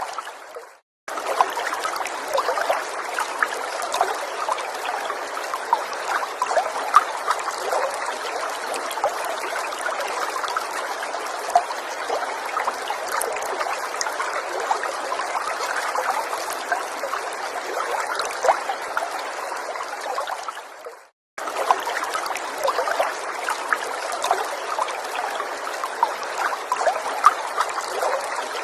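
A small stream trickling and babbling steadily, with little splashes throughout. Twice, about a second in and about two-thirds of the way through, the water sound fades out briefly and cuts back in.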